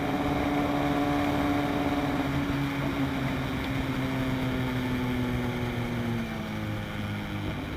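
Sport motorcycle engine held at steady high revs under way, with wind rush over the microphone; a second engine joins about halfway, and near the end the pitch slowly drops as the throttle eases.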